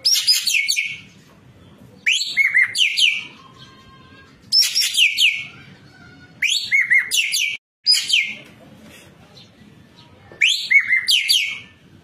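Ekek keling songbird calling in loud repeated phrases of about a second each. Each phrase is a run of sharp whistles that sweep steeply down in pitch, mixed with quick trilled notes. Five phrases come in turn, with short pauses between them.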